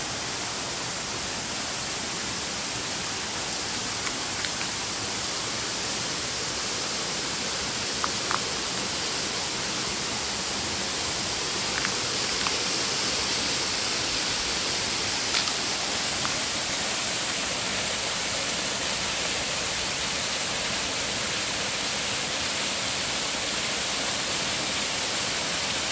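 Waterfall cascades giving a steady, even rush of falling water, with a few faint short ticks over it.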